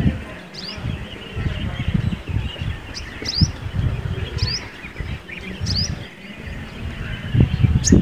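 Small birds chirping: about half a dozen short, high chirps at irregular intervals, over a low, uneven rumble.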